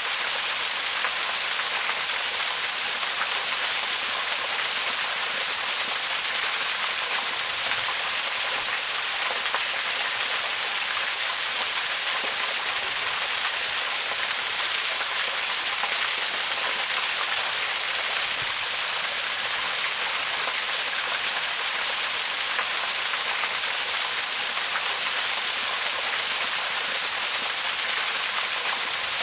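Waterfall rushing in a steady, unbroken hiss of falling water, bright and high with little low rumble.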